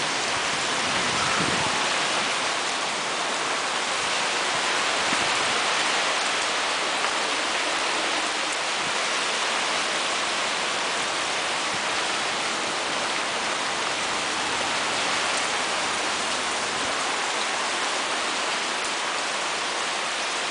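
Rain falling steadily, a dense even hiss that holds the same level throughout, with a few faint low knocks in the first second or so.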